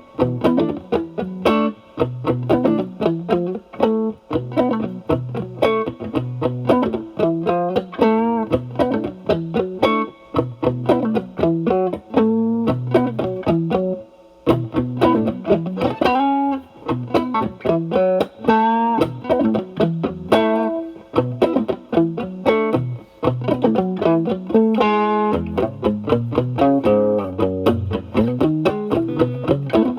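Fender Stratocaster with single-coil alnico pickups through an Ibanez Tube Screamer Mini overdrive pedal, its drive knob at about one to two o'clock, into a Marshall Valvestate amp's clean channel: lightly overdriven improvised lead lines with string bends and vibrato. There is a short pause about 14 seconds in.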